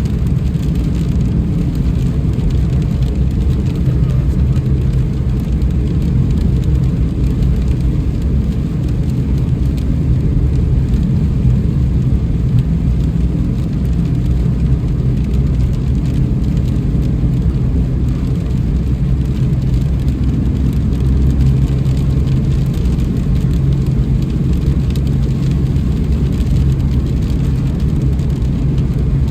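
Car driving through heavy rain: a steady low rumble of road and engine noise with rain on the car faintly over it.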